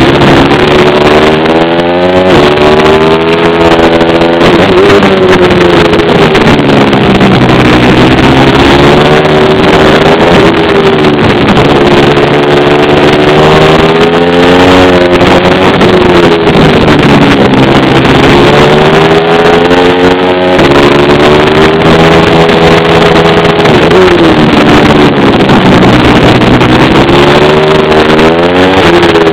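Pit bike's small single-cylinder four-stroke engine revving hard and loud, climbing in pitch on each run of throttle and dropping back again, over and over, as the bike accelerates and backs off around the track.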